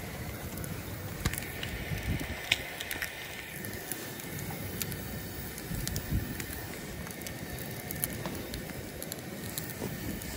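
Hot dogs and bagel halves sizzling and crackling in a frying pan over the steady hiss of a Coleman liquid-fuel camp stove burner, with small sharp pops scattered through.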